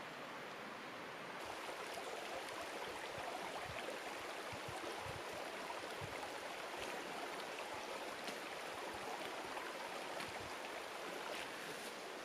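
Mountain headwater stream babbling in a steady rush that grows a little louder about a second in, with a few faint ticks scattered through it.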